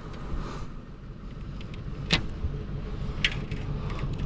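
Two sharp metal clinks from tools and parts being worked on a scrapped appliance, a little over a second apart, over a low steady rumble.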